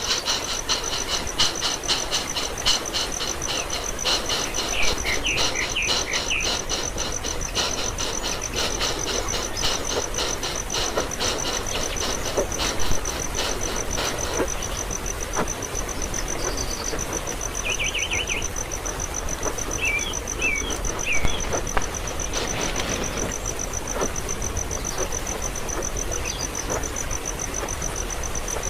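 Insects trilling steadily on one high note, with a pulsing chorus that fades out about halfway through. A few short high bird chirps come in three brief groups.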